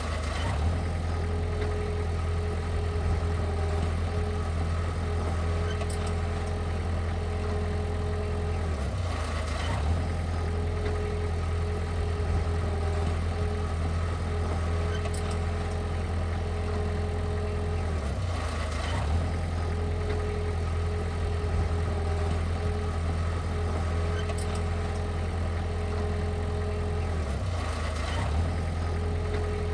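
Heavy diesel engine of earthmoving equipment running steadily, with its note dipping briefly about every nine seconds.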